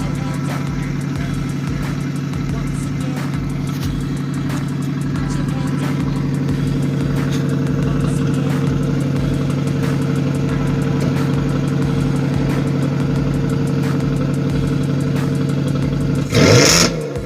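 Dodge Magnum SXT's 3.5-litre V6 idling steadily through a Challenger dual exhaust with the mid muffler deleted and the resonators still on. About a second before the end it gives one quick, loud rev.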